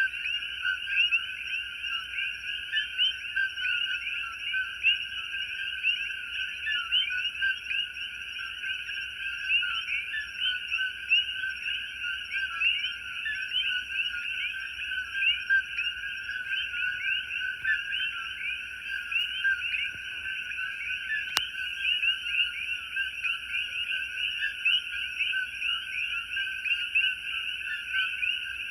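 A dense, continuous chorus of frogs, many overlapping short calls at once, with a fainter steady high-pitched hiss above it.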